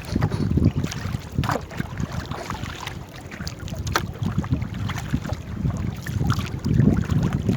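Wind buffeting the microphone as a low, fluctuating rumble aboard a small paddled boat, with a few sharp knocks.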